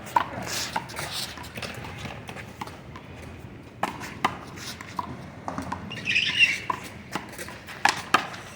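One-wall handball rally: a small rubber handball smacked by hand and hitting the wall and ground, in sharp, irregularly spaced smacks. A brief squeaky sound comes about six seconds in.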